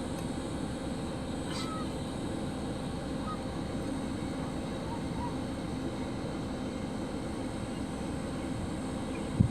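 A steady low outdoor rumble with a few faint, short goose calls scattered through it. A single sharp thump comes near the end.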